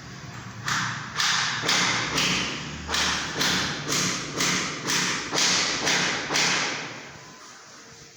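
A steady run of about a dozen hammer blows on wood, roughly two a second, which stop a little over a second before the end.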